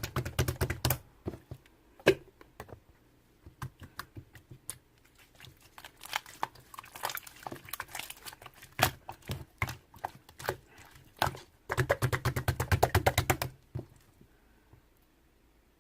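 Clear slime being squished and poked, giving sticky clicking and popping sounds. A dense run of rapid clicks comes at the start and another about twelve seconds in, then the handling stops near the end.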